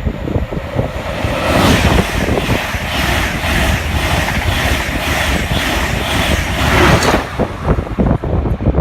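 A train passing through the station at speed: a dense rush of wheel and air noise builds about a second and a half in and cuts off at about seven seconds. Wind buffets the microphone throughout.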